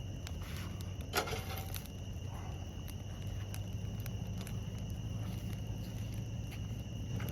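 Steady night chorus of crickets, a continuous high trill, with a low background hum. Scattered small clicks and crackles run through it, with one brief clatter about a second in.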